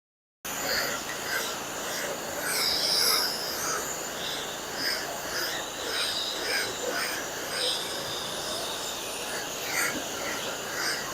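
A pickup truck being washed by hand: a steady hiss with repeated short strokes about twice a second. It starts abruptly about half a second in.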